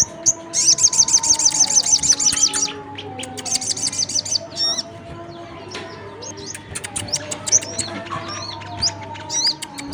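Sunbird lure calls, a mix of crimson sunbird and brown-throated sunbird: two long runs of rapid, high, fast-repeated trill notes in the first half, then scattered sharp high chirps. Under them runs a faint steady low hum.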